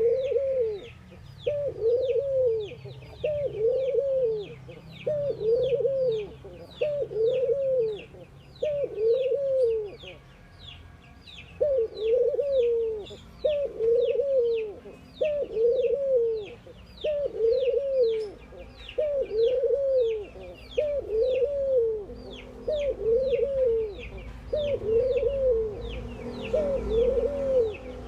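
Ringneck dove cooing, a short arched coo repeated about once a second with a brief pause partway through. Another bird's quick, high, downward chirps run steadily underneath, a few per second.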